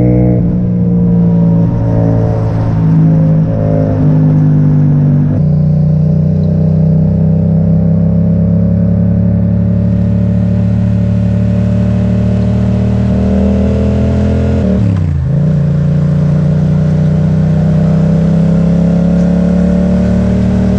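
Yamaha MT-07 parallel-twin engine through an Akrapovic exhaust, riding under steady load. The engine note drops in pitch at gear changes near the start and about five seconds in, climbs slowly, and dips sharply and recovers about fifteen seconds in.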